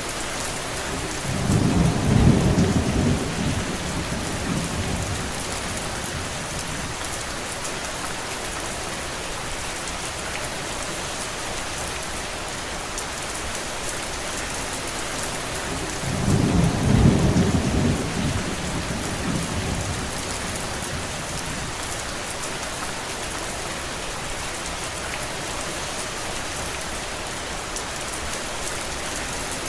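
Steady heavy rain falling. A low rumble of thunder swells and fades twice, about two seconds in and again about sixteen seconds in, each lasting a few seconds.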